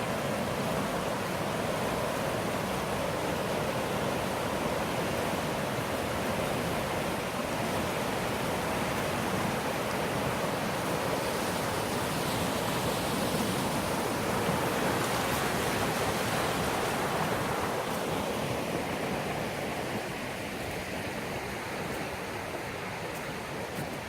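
River water rushing steadily over rocks, a full even roar of flowing water that eases a little near the end.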